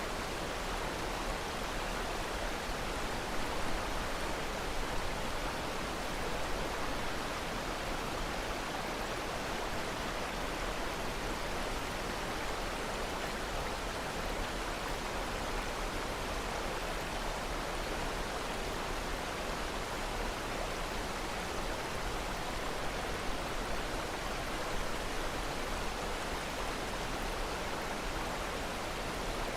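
Rushing water, like a waterfall or stream, as a steady, even hiss with no break.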